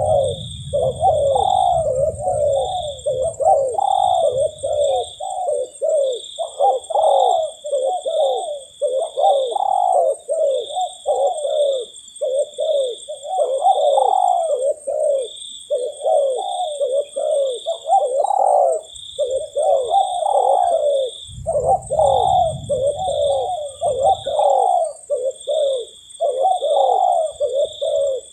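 Spotted doves cooing, call after call with hardly a break, over a steady high-pitched whine. A low rumble runs under the first few seconds and again about three-quarters of the way through.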